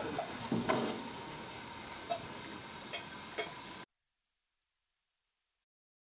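Faint sizzling of food frying in a wok, with a few light clicks of utensils against dishes; the sound cuts off suddenly to silence about four seconds in.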